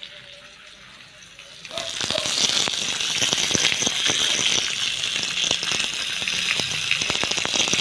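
Food dropped into hot oil, starting to sizzle suddenly about two seconds in, then a steady loud hiss with many small crackling pops.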